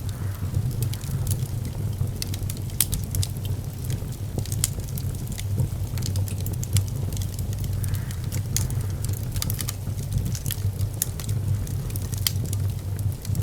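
Fire burning in a fireplace: a steady low rumble of flame with frequent sharp crackles and pops scattered irregularly.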